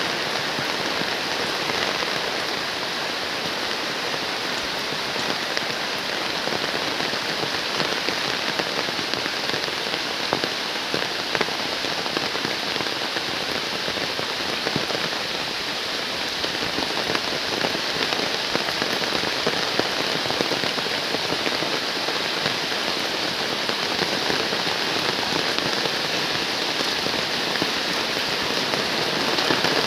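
Heavy rain falling steadily: a dense, even hiss of drops striking the ground and surfaces, with individual drop patters throughout.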